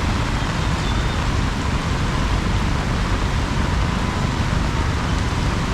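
Heavy rain falling in a steady downpour: an even, unbroken hiss with a strong low rumble underneath.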